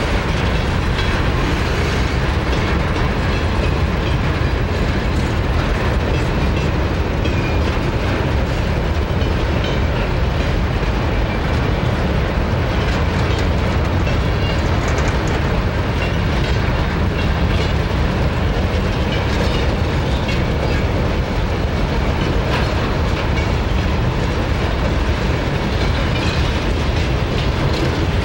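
Long freight train of empty grain hopper cars rolling past at close range, with a steady, unbroken rumble of steel wheels on the rails.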